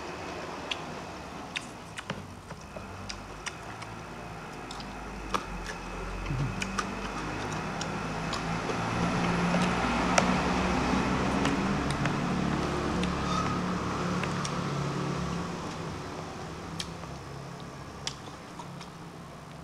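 Close-miked eating sounds: a man chewing a mouthful of rice with lip smacks and short wet mouth clicks scattered throughout. A low hum swells in the background for several seconds in the middle and then fades.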